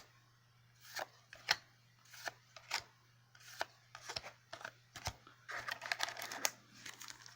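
Yu-Gi-Oh! trading cards being handled and flipped one at a time, a string of soft separate flicks, then a couple of seconds of continuous sliding and rubbing of cards near the end.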